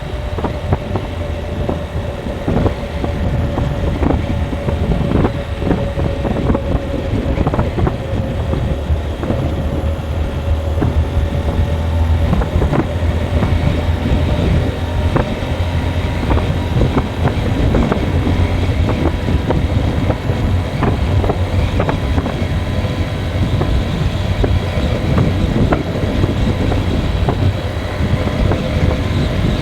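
Motor vehicle on the move: a steady low engine hum with road noise and frequent small knocks and rattles.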